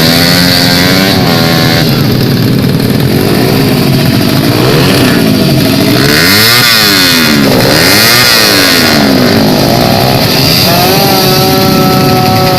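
Drag-race motorcycle engines being revved, several at once, their pitch rising and falling and crossing each other, then one held at a steady high rev near the end.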